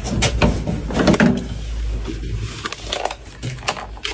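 Irregular clicks and knocks of a metal electrical distribution cabinet being handled, over a steady low electrical hum.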